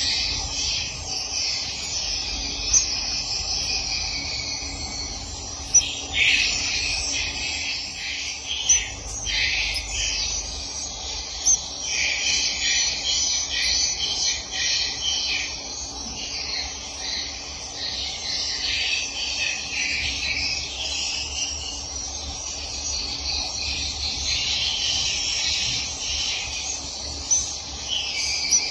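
Swiftlets twittering, a continuous dense chorus of high chirps, with a few sharper, louder clicks.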